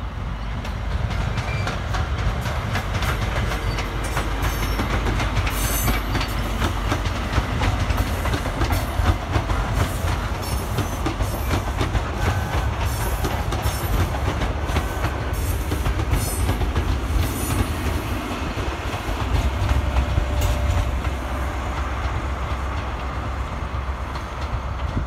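ScotRail Class 43 HST passing, with a steady low rumble from its diesel power cars. Its wheels click rapidly over the rail joints as the coaches go by, and the rumble swells again near the end as the rear power car passes.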